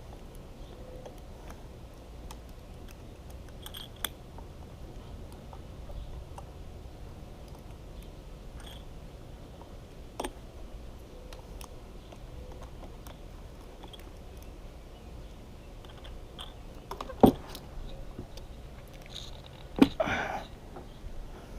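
Sparse clicks and knocks of tools and hard parts being handled, over a steady low hum; the loudest knocks come about seventeen and twenty seconds in.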